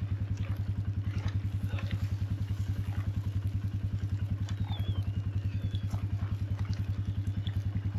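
Four-wheeler engine idling steadily, an even low putter of about ten beats a second, with faint clicks and crackles over it.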